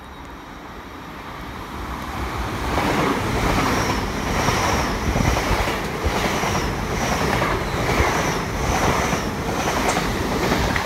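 LNER Azuma (Hitachi Class 800-series) train passing at speed. The rush of wheels and air builds over the first three seconds, then comes in a regular pulse about every two-thirds of a second.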